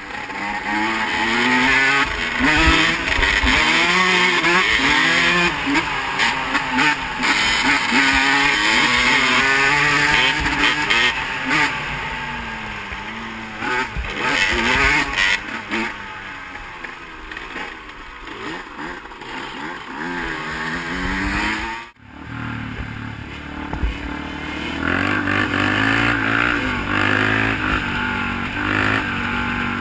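Off-road engine revving up and down again and again while riding, with low thumping buffets on the microphone. The sound drops out sharply about two-thirds of the way through, then an engine carries on at a lower, steadier pitch.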